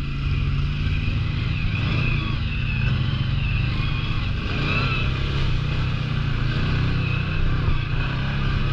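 Large-displacement ATV engine running at low, fairly steady revs, with a wavering higher whine over the engine note.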